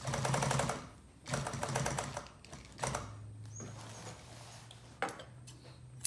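Upholstery sewing machine stitching in two short runs of rapid stitches, about a second each. It then stops stitching while its motor keeps humming steadily, with a couple of sharp knocks.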